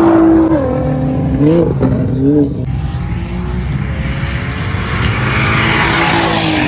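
Race car engines running hard as cars pass on the circuit. The engine note falls in pitch, then quickly rises and falls twice around two seconds in, and a growing rush of engine and tyre noise builds near the end.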